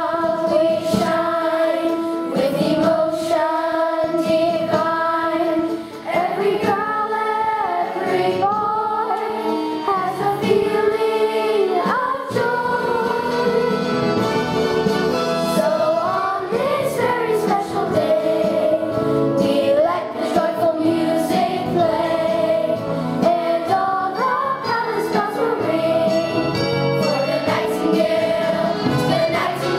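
A choir of children singing a song together with music playing along, sustained sung notes moving from phrase to phrase, with a short pause about six seconds in.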